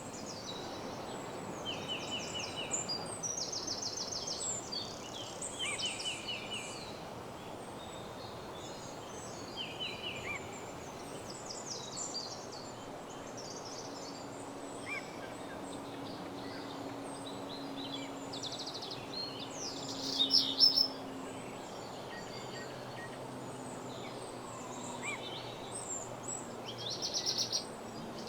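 Woodland dawn chorus: several songbirds singing short, rapidly repeated trilled phrases over a steady background hiss. A faint low hum comes in about halfway through, and the loudest bird phrases come near the end.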